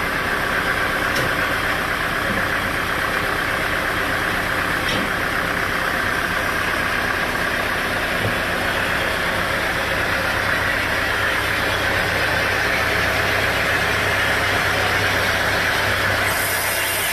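An engine running steadily with no let-up, its low hum growing stronger about halfway through.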